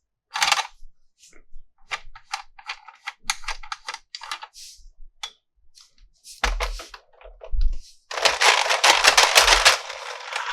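Plastic toy parts and packaging being handled: a series of sharp clicks and short crinkles, with a dense run of rapid clicking near the end.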